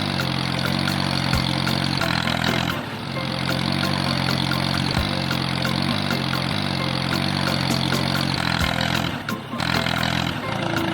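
A vehicle engine runs steadily. It breaks off briefly about three seconds in and again near the end, and a few faint knocks sound over it.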